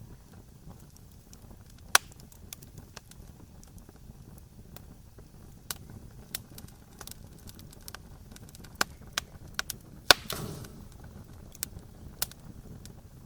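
Wood campfire crackling, with sharp pops at irregular intervals over a low steady rumble. The loudest pop comes about ten seconds in and is followed by a brief hiss.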